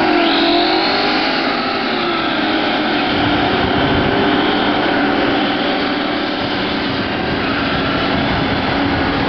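Several Chevrolet Camaro and Pontiac Firebird engines held at high revs while doing burnouts together, rear tyres spinning and smoking on the pavement. The engine note wavers up and down in pitch in the first second or so, then holds steady.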